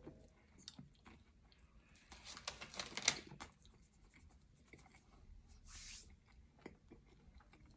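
Faint eating sounds of a Jamaican spinach patty: chewing with small clicks, and a louder stretch of handling noise about two to three seconds in.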